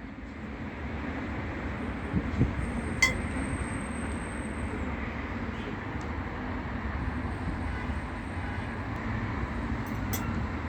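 Steady low rumbling background noise with a few light clinks, about three seconds in and again near the end.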